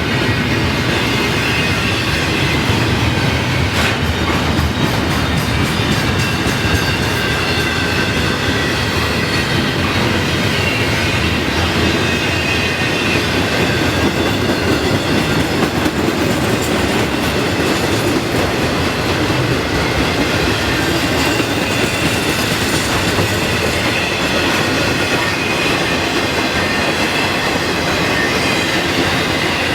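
Freight train cars rolling past at close range: a steady loud rumble of steel wheels on the rails, with clicking over rail joints and thin high wheel squeal throughout.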